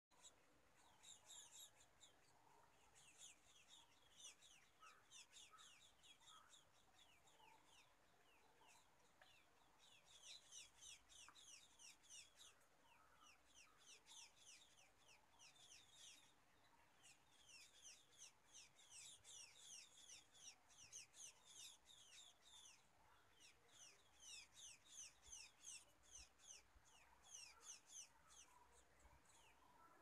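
Small bird chirping in quick runs of high, falling notes, about ten a second, in bursts of one to three seconds with short pauses between.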